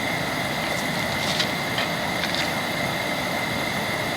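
Steady rushing of a valley stream's flowing water, even throughout, with a thin steady high tone over it and a few faint clicks.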